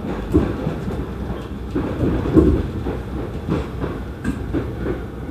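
Sound inside a running Iga Railway commuter train car: a steady low rumble of the wheels on the track, broken by irregular knocks and jolts.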